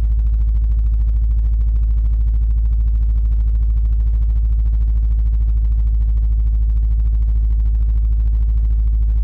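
2012 Subaru STi's turbocharged 2.5-litre flat-four idling steadily on E85 just after a cold start at about 2 °F, the idle holding without hunting.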